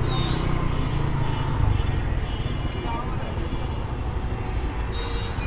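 A train running on the rails with a steady low rumble, and a high squealing tone at the very start and again near the end.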